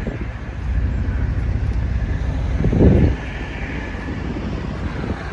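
Heavy diesel truck engine running with a steady low rumble, rising briefly to a louder rush about three seconds in.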